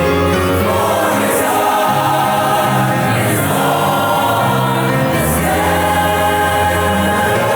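A choir singing over sustained low accompanying notes.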